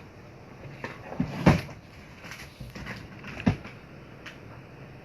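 A few light knocks and thumps of craft things being handled and set down on a table, the loudest about one and a half seconds in and again about three and a half seconds in.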